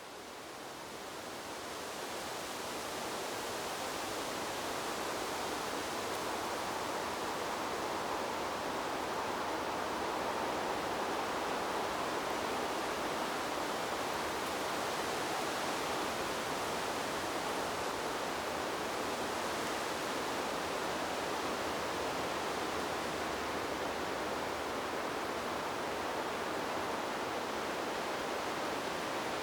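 Wind blowing through trees: a steady, even rushing hiss that swells up over the first few seconds and then holds level.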